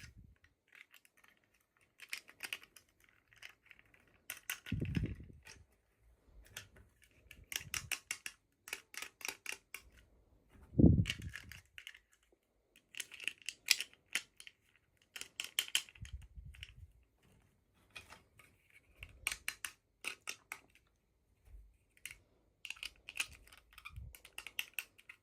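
Hands unboxing small plastic toys: crinkling and rustling packaging, many small sharp clicks of plastic pieces, and a few soft thumps as things are set down.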